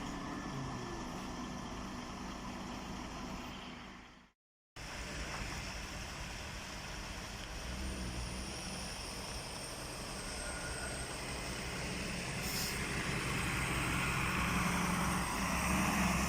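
Road vehicles running as a steady low engine and traffic hum, growing slightly louder toward the end. The sound cuts out completely for about half a second a little over four seconds in.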